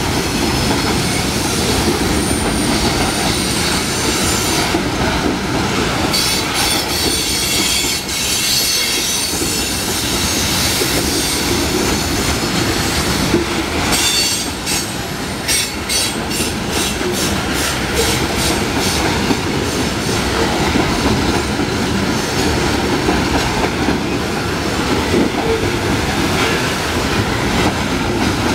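Loaded coal hopper cars of a freight train rolling past: a steady rumble of steel wheels on rail, with clicking over the rail joints and some wheel squeal. A quick run of clicks comes about halfway through.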